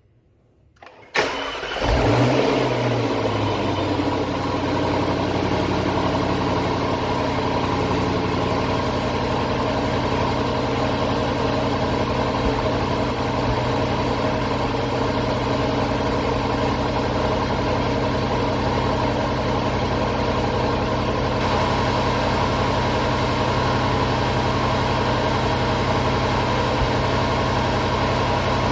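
Jaguar car engine cold-starting about a second in: a brief crank, a quick flare of revs, then settling into a steady idle, heard from right in the engine bay with the hood open.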